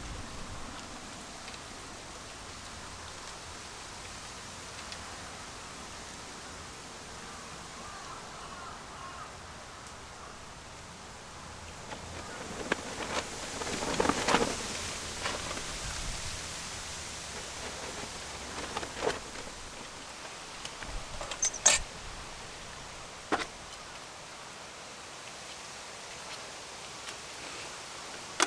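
Steady night-time outdoor hiss with faint insect chirping. About halfway through comes a spell of rustling and knocks, and a few sharp clicks follow later.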